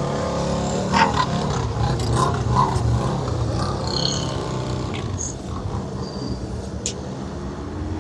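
A motor vehicle's engine running steadily, getting quieter over the second half, with a few short high chirps around the middle.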